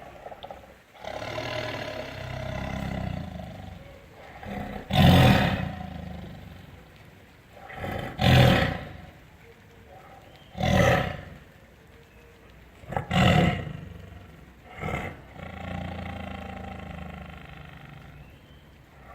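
Tiger roaring: a series of about five loud, short roars a few seconds apart, with longer, lower calling before and after them.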